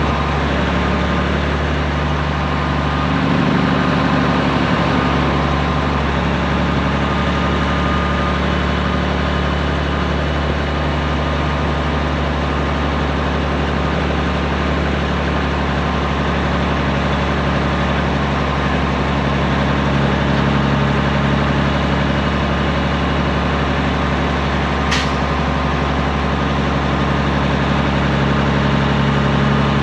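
Straight-piped Peterbilt 389 semi truck's diesel engine running steadily with a low, even drone. There is a single brief sharp click near the end.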